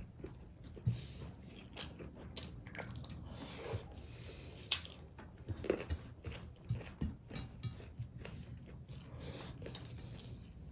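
Close-miked chewing of food, with irregular sharp mouth clicks and smacks scattered through.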